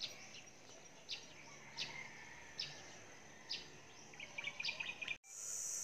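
Faint rural outdoor ambience with short bird chirps under a second apart and a quick run of chirps near the end. It then cuts abruptly to a steady high insect drone like crickets.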